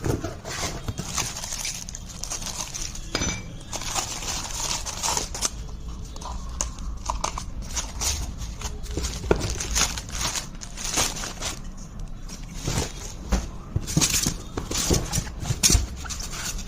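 Irregular knocks, clinks and rustling as the boxed parts and packaging of a three-blade ceiling fan are handled and unpacked.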